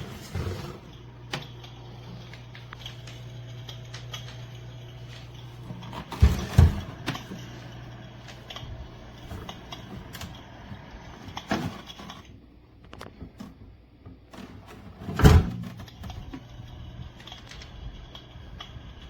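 Electric fireplace heater running, its fan giving a steady hum under scattered clicks from the built-in crackling-fire sound effect. The hum cuts out about twelve seconds in and comes back about three seconds later, and two loud knocks come about six seconds in and as the hum returns.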